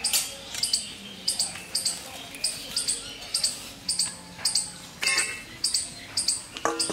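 Birds chirping: short high-pitched chirps repeated about two or three times a second, with a brief lower-pitched call near the end.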